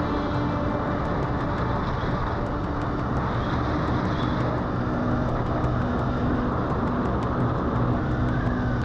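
Steady road and wind noise of a vehicle being ridden along a road, an even rush without breaks or sudden events.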